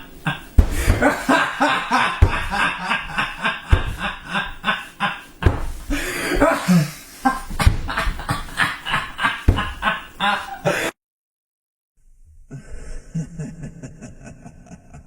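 Crazy, rapid cackling laughter, a quick run of ha-ha pulses several times a second that cuts off suddenly about eleven seconds in. After a second of silence, a quieter, thinner-sounding pulsing stretch begins.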